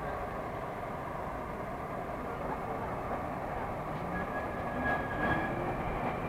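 Moscow Metro 'Moskva' electric train running between stations, heard from inside the carriage: a steady rumble of wheels and running gear, with a faint high whine joining in about four seconds in.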